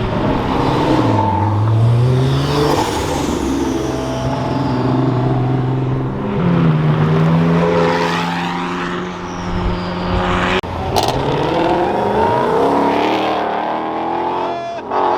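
Car engines revving and accelerating hard as performance cars pull away one after another, the engine pitch rising and falling repeatedly. The sound breaks off abruptly about ten and a half seconds in and carries on.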